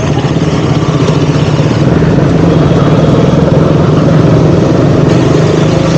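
KTM Duke 200's single-cylinder engine running steadily under the rider, getting a little louder about two seconds in.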